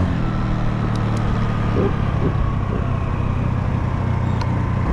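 Honda Navi's small single-cylinder engine running steadily while riding, a low even hum under road and wind noise.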